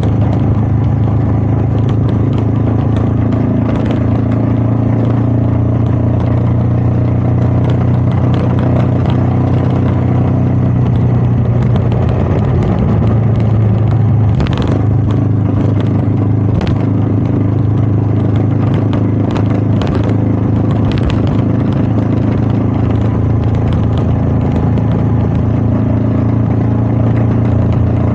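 Royal Enfield Meteor 350's single-cylinder engine running steadily under way, with wind noise. About twelve seconds in the engine note wavers for a couple of seconds before settling again, and a few sharp ticks come in the second half.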